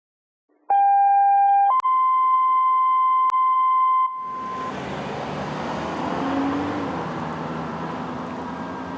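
Two steady electronic tones in a row: a lower one for about a second, then a higher one for about two and a half seconds. Four seconds in they give way to road noise and the rumble of a fire engine's motor, with a faint wavering siren.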